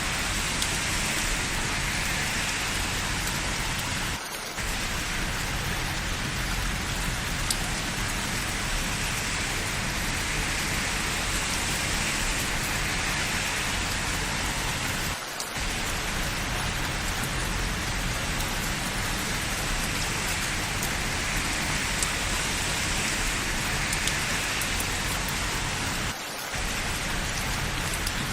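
Steady, dense rainfall with a few sharp drop ticks. The sound dips briefly three times, about every eleven seconds.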